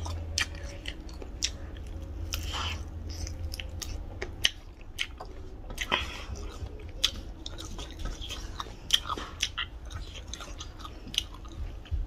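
Close-miked chewing and biting of chicken eaten by hand, with a string of short sharp mouth clicks and smacks.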